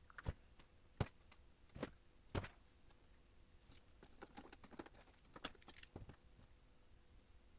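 Four sharp clicks or taps in the first two and a half seconds, then a run of lighter, quicker clicks a couple of seconds later, as of small hard objects being handled.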